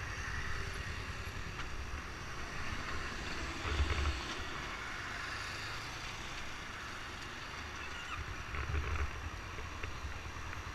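Wind buffeting the microphone over a steady hiss, with low rumbles swelling about four seconds in and again near nine seconds.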